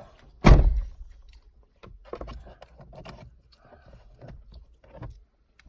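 A loud thump about half a second in, followed by scattered light knocks, clicks and rustles of things being handled during cleaning of a car's interior.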